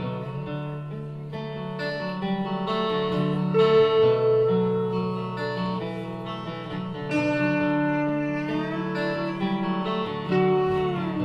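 Acoustic guitars playing the instrumental intro of an acoustic rock song, with sustained chords and a note that slides down in pitch near the end.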